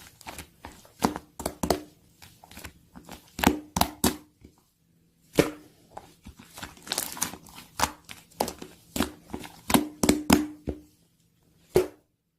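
Slime being squished and pressed by hand, giving crisp irregular clicks and pops with a couple of short pauses; it stops suddenly near the end.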